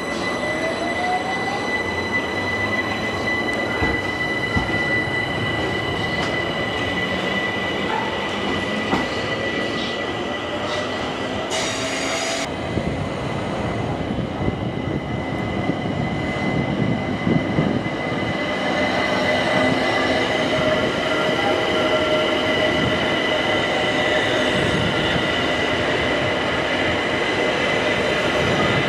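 Train running on the rails with a steady high-pitched wheel squeal on curved track and a whine that rises over the first few seconds. There is a brief hiss about twelve seconds in, and the sound grows a little louder in the last ten seconds.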